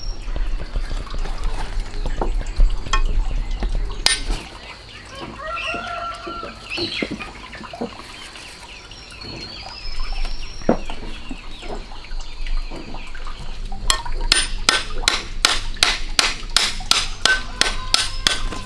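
Chickens clucking with a bird chirping in the background, then a run of quick, even knocks, about four a second, starting near the end.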